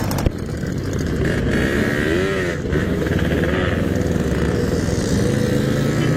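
Yamaha RX-King's two-stroke single-cylinder engine running under way through its stock-style belek exhaust, revving up and back down about two seconds in. A single sharp tap sounds just after the start.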